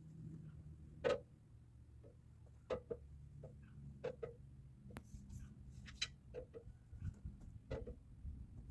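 Irregular light knocks and clicks, one or two a second, over a low steady hum.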